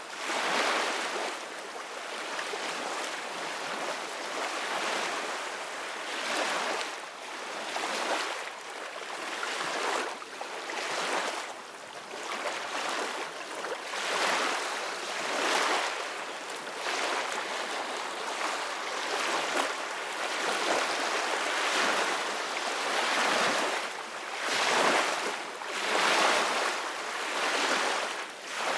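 Ocean surf washing in continuously, a hissing wash of waves that swells and eases every couple of seconds.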